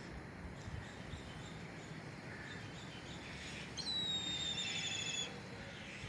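A bird gives one long whistled call about four seconds in, starting sharply, falling slightly in pitch and ending in a quaver, after a few fainter chirps. Under it runs a low, steady wind noise.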